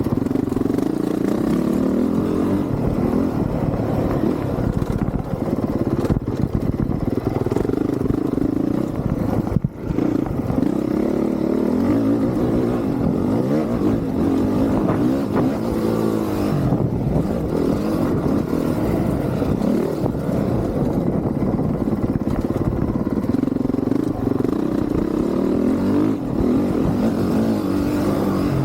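Honda CRF450R's single-cylinder four-stroke motocross engine being ridden hard, its revs rising and falling with the throttle, with a brief drop in sound about ten seconds in.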